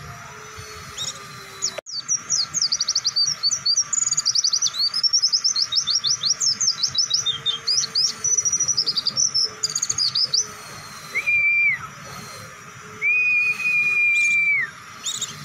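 Pleci (white-eye) singing a long, fast run of high chirping notes, the rapid 'ngebren' style prized in masteran recordings. This is followed by two long, level whistles near the end.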